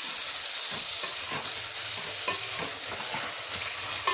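Sliced onions and tomatoes frying in ghee in a metal pot with a steady sizzle while the masala base is sautéed. A spoon scrapes and knocks against the pot several times as it is stirred.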